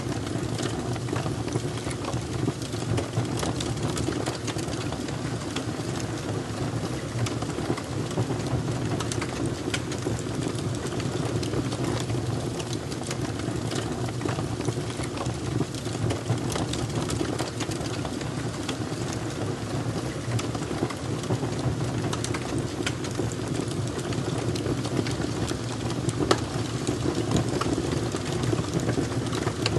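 Fire crackling steadily, with frequent small sharp pops over a constant low rumble.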